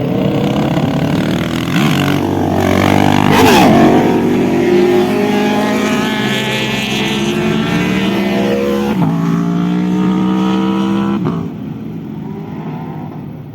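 Racing motorcycle engine at full throttle as the bike passes by, its pitch climbing through the gears with two upshifts in the latter half, then fading into the distance near the end.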